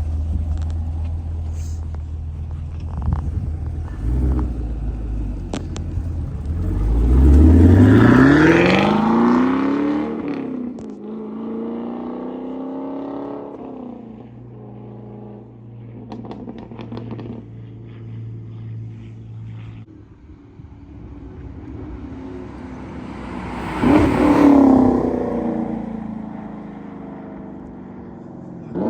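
Chevrolet Camaro SS 1LE's 6.2-litre V8 through a Borla ATAK axle-back exhaust, idling and then accelerating hard with steeply rising revs about seven seconds in before the sound falls away. Later in the clip it passes by loudly, its pitch dropping as it goes past.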